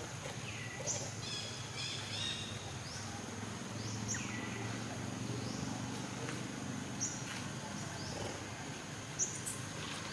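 Outdoor natural ambience: a steady high-pitched insect drone with a low hum beneath it. Short, high chirping calls that slide downward in pitch come about half a dozen times, several close together early on.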